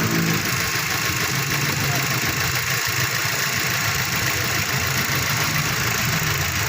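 Mazda 3's four-cylinder engine idling while misfiring, the random multiple-cylinder misfire behind a P0300 code.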